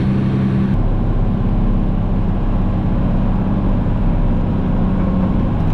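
Engine running steadily under way, its note dropping and changing character about a second in, then holding steady.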